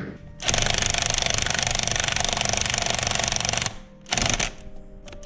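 Handheld power tool driving fasteners with a fast hammering rattle: one run of about three seconds, a short burst about four seconds in, and another just at the end, as engine bolts are run down tight.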